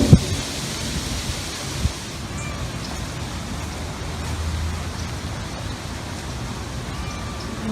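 Steady outdoor background hiss with a short thud about two seconds in and a low rumble lasting about a second midway.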